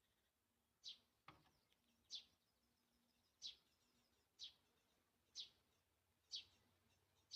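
A small songbird calling a short, sharp note over and over, about once a second. There is a single faint tap a little over a second in.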